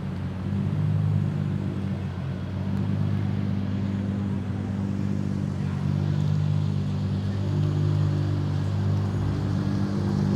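A car engine running steadily, its pitch holding fairly even.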